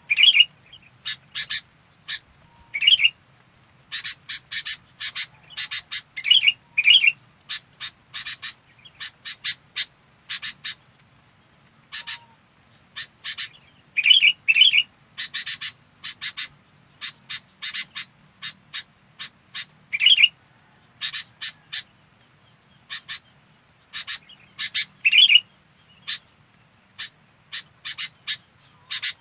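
Sooty-headed bulbul (kutilang) singing actively: rapid, sharp chirps in irregular bursts, with a few lower, fuller notes mixed in.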